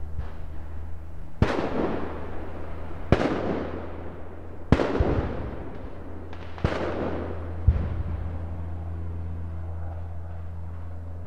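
Distant gunfire: five sharp shots at uneven intervals, each followed by a long rolling echo, over a low steady hum.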